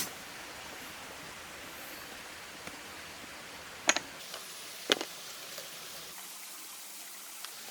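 Two sharp, short knocks about a second apart, with a few fainter ticks, over a steady low hiss.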